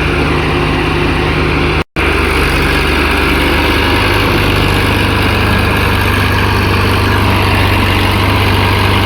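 Tractor diesel engine running steadily. The sound drops out for a split second about two seconds in, after which the engine note is slightly different.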